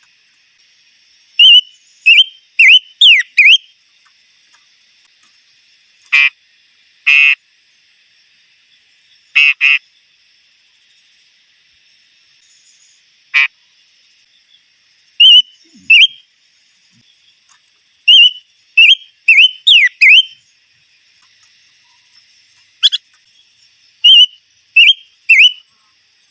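A small songbird known in Vietnamese as the chim ngũ sắc calling: short, sharp, high whistled notes that swoop up and down, given in clusters of two to four. A few longer rasping buzzes come in between, about six, seven, nine and a half and thirteen seconds in.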